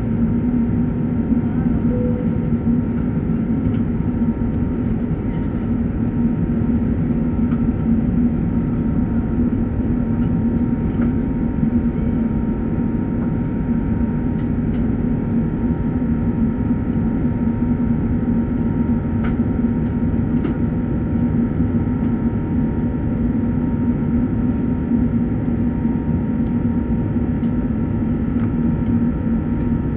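Steady drone of an Airbus A380's engines and airflow heard inside the passenger cabin in flight: a constant low hum with a faint steady tone above it.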